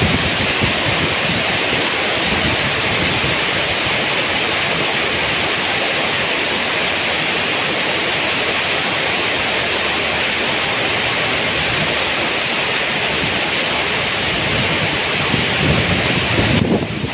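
Heavy tropical rain pouring down in a storm: a dense, steady hiss of rainfall. Near the end it briefly dips and a low rumble rises.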